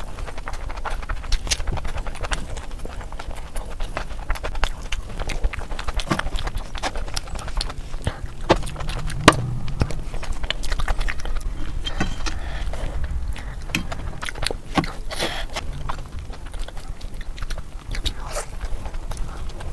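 A person chewing oily mutton fat curry and puri close to the microphone, with a steady stream of irregular wet smacks and clicks.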